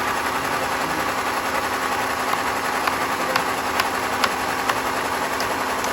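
Engine-driven sawmill machinery running steadily with an even hum and hiss. From about two seconds in, sharp clicks or knocks come roughly twice a second.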